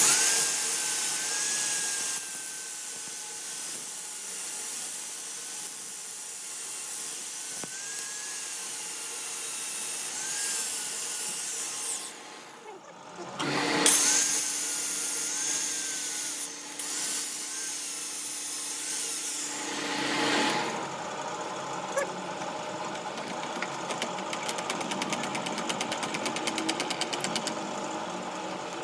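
A power tool running under load, its whine wavering in pitch. It stops briefly about halfway, then runs again with a steady low hum. Near the end, quieter, fast regular ticking.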